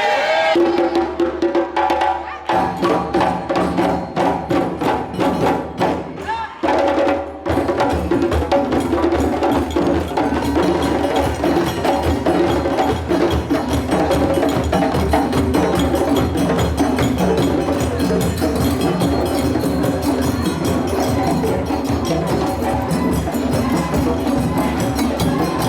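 Parade percussion band playing: drums with a clicking, bell-like beat. Scattered strokes over a held note give way, about seven seconds in, to the full group keeping a fast, steady rhythm.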